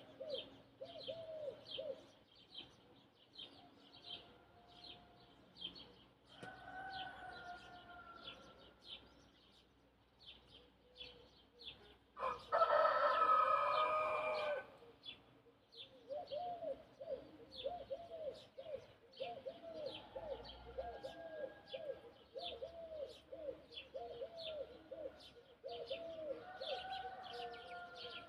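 A rooster crows once, loudly, for about two seconds about halfway through, over steady chirping and calling of small birds. A fainter, more distant crow comes about a quarter of the way in.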